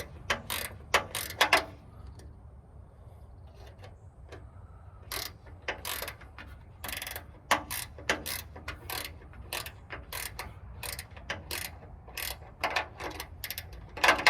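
Ratchet wrench clicking in short runs of strokes as a bolt is tightened on a spotlight mounting bracket, with a pause of a few seconds between runs.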